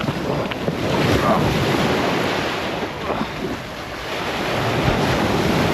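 Wind buffeting the microphone over the sound of the sea's waves, in gusts that swell and ease.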